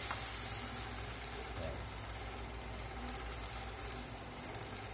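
Pancake batter frying in a hot wok, a steady, even sizzle.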